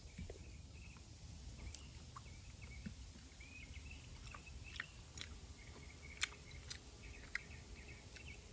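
Quiet chewing of pasta, with a few sharp clicks of a metal fork against a ceramic bowl in the second half. Faint chirping runs in the background over a low steady rumble.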